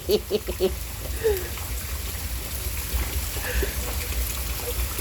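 Steady rain falling in a thunderstorm, an even hiss over a constant low rumble, with a few words of speech in the first moment.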